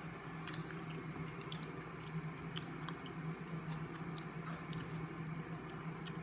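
Someone chewing and eating bánh in, a mung-bean-filled rice-flour cake, with irregular small mouth clicks and smacks. A steady low hum runs underneath.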